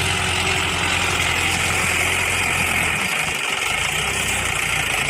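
Indo Farm 3065 tractor's diesel engine running steadily, its low note dipping briefly about three seconds in.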